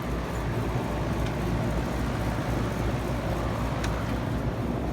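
2013 Kawasaki ZX-6R's inline-four engine idling steadily through a full carbon M4 exhaust system.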